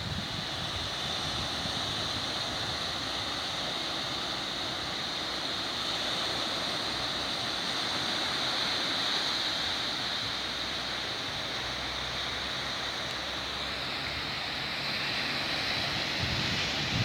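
Sea waves washing on the shore: a steady rush of surf noise with no breaks.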